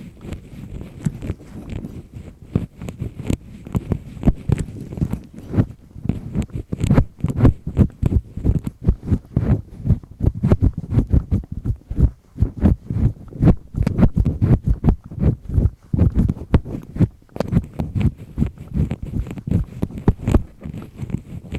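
A double-disc earpick scraping firmly inside an ear canal, close to the microphone: quick, irregular scratching and rubbing strokes, several a second, mostly deep and muffled.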